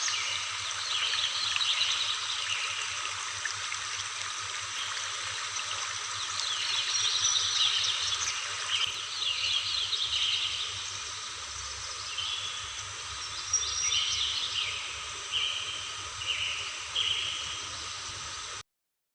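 Waterfall running with a steady rush of water, under a steady high drone and birds chirping in short repeated calls throughout. The sound cuts off suddenly near the end.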